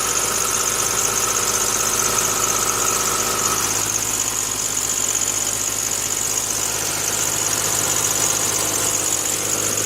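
Freshly rebuilt Honda B16A2 1.6-litre four-cylinder, built with forged pistons and rods, idling steadily over a high steady whine; a fainter tone above the idle drops out a few seconds in.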